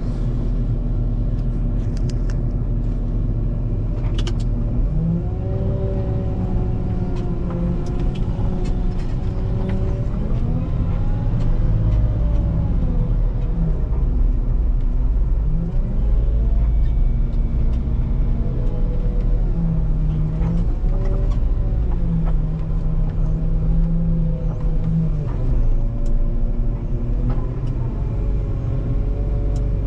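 Volvo L90H wheel loader's diesel engine running under load with a steady low rumble. Its pitch holds for a few seconds at a time and then rises and falls several times as the engine speed changes.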